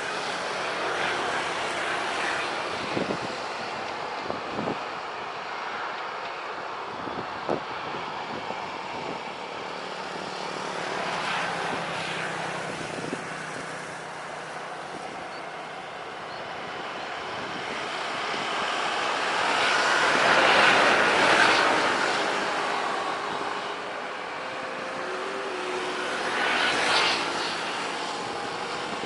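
Airliner engines running outside, a steady rush that swells to its loudest about two-thirds of the way through and then falls away, with a smaller rise near the end. A few short clicks come in the first several seconds.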